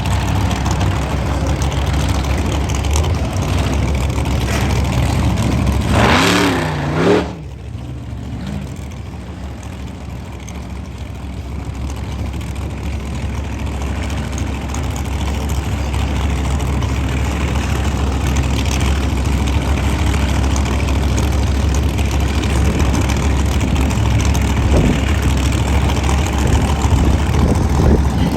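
Monster truck engine running with a loud, steady low rumble. About six seconds in, a brief wavering rev rises and falls and then drops off sharply, and the engine sound then builds back up gradually.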